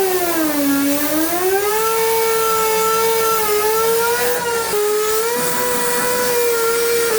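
A machine's motor running with a steady high whine; its pitch sags about a second in and climbs back, as under load, with a smaller wobble around three and a half seconds in.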